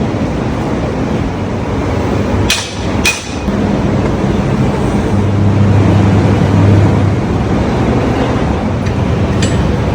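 Truck engine running steadily, with two sharp metallic clacks about half a second apart a few seconds in.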